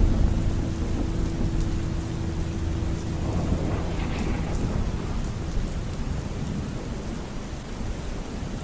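Steady rain falling with low thunder rumbling, a rain-and-thunderstorm ambience track.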